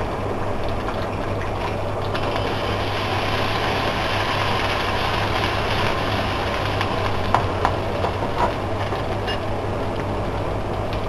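Ginger and garlic paste frying in oil in a steel pot, sizzling steadily as it is stirred with a spoon, with a few light clinks of the spoon against the pot between about seven and eight and a half seconds in. A steady low hum runs underneath.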